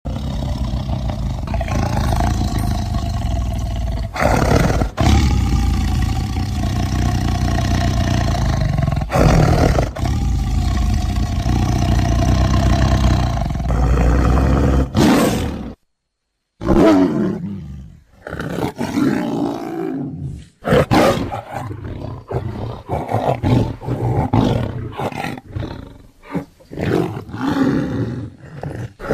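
Designed big-cat roars made from lion and tiger recordings: several long, drawn-out roars, then a brief silence and a quick run of short roars and growls.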